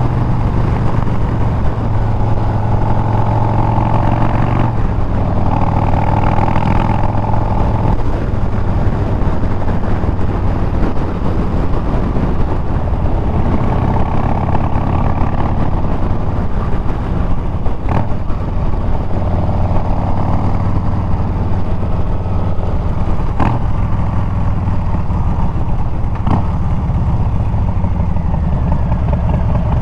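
Harley-Davidson Milwaukee-Eight 114 V-twin running through Bassani straight pipes while riding, its note steady at times and changing pitch a few times as the throttle changes. A few sharp clicks come through in the second half.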